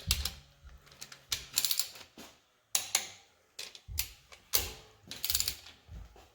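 Ratcheting torque wrench clicking in repeated short strokes as the rocker arm bolts on a 318 V8 are brought up to torque.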